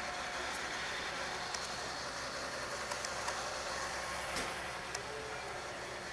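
Steady street noise of traffic and running vehicles, with a few faint clicks.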